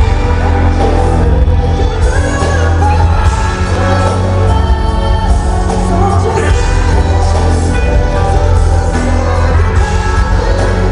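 Live concert performance of a pop ballad: a band with heavy bass and a sung vocal, loud and continuous.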